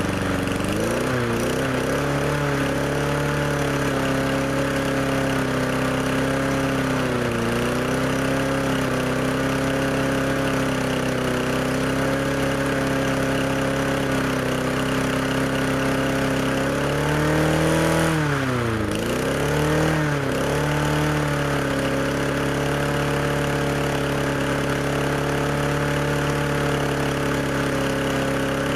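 MTD push lawnmower's small engine running steadily with the blade bail clamped, left on to burn the gas out of its carburetor. Its speed sags briefly a few times, most deeply about two-thirds of the way through, then picks back up.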